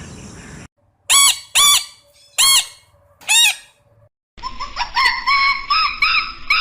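A bird squawking: four loud, short calls, then after a brief gap a quick run of many shorter chattering calls.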